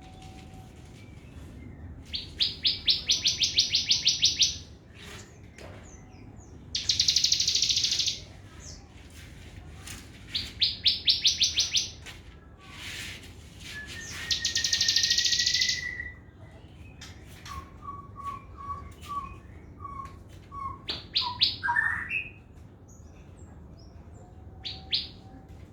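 Sogon songbird singing: repeated one- to two-second bursts of very fast, high-pitched rattling trills, about six of them, with a short rising whistle and a string of quick lower notes in between.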